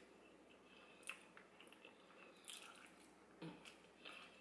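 Faint chewing of a person eating by hand, with a few short mouth clicks about one, two and a half and three and a half seconds in.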